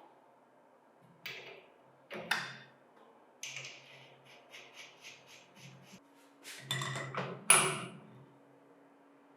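Metal parts and hand tools clinking and knocking against each other. In the middle comes a run of quick clicks, about four a second, and the loudest knock falls near the end.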